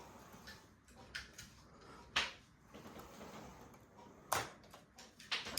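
A handful of sharp plastic clicks and knocks from a model Deltic locomotive being handled and set on the track for a test run; the loudest come about two seconds in and again near the end.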